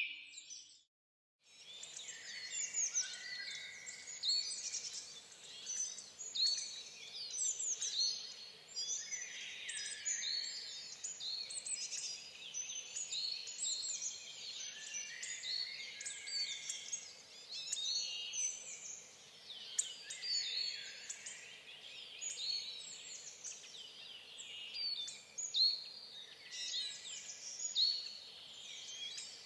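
Many small songbirds chirping and twittering together in a dense, unbroken chatter. The sound cuts out completely for about a second near the start, then comes back.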